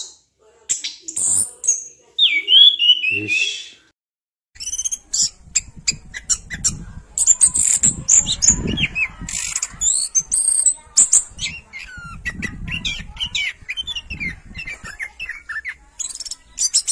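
Birds chirping and squawking in quick, overlapping calls. The calls stop briefly about four seconds in, then resume busier over a low background rumble.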